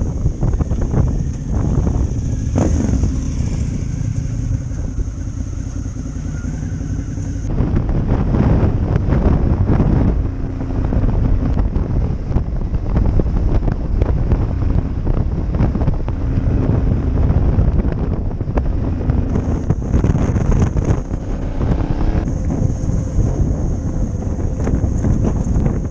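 Motorcycle on the move, with heavy wind buffeting the microphone. The engine's note shows faintly through the wind and shifts in pitch now and then.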